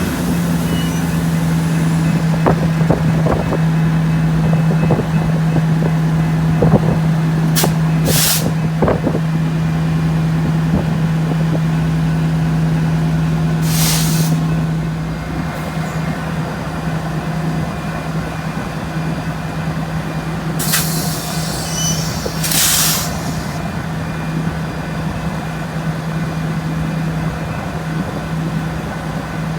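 Diesel genset switcher locomotive running steadily, its engine note easing about halfway through, with a few knocks early on and four short hisses of air typical of air-brake releases.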